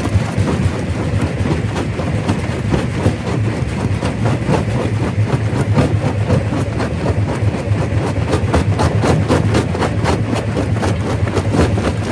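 Primary rock crusher running under load: a steady low rumble with dense, irregular cracks and knocks of rock being broken.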